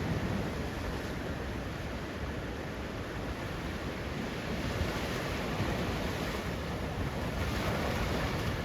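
Ocean surf washing on the shore, a steady rush that swells a little near the end, with wind on the microphone.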